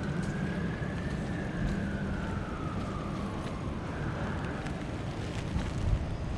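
An emergency-vehicle siren wailing, one slow rise and fall in pitch that fades out about four seconds in, over steady city traffic noise.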